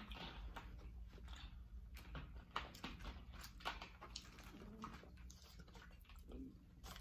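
Faint eating sounds: chewing and mouth noises with scattered soft clicks and crackles.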